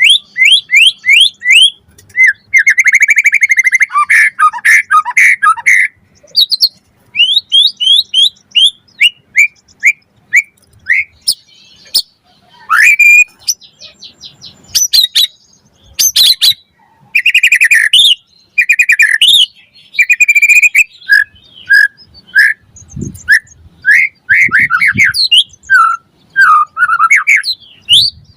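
White-rumped shama (murai batu) singing a loud, varied song: quick runs of short rising whistled notes, trilled and chattering phrases, and a few sharp clicks in the middle, with short pauses between phrases.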